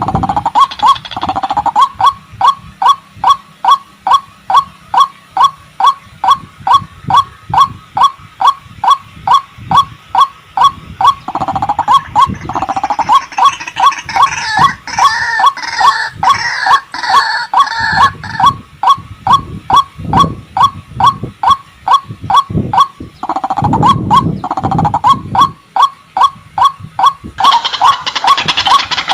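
White-breasted waterhen (ruak-ruak) calling: a loud, hooked note repeated about two and a half times a second, with a busier tangle of overlapping calls in the middle and a brief break a little past two thirds of the way. Near the end a denser, higher sound comes in.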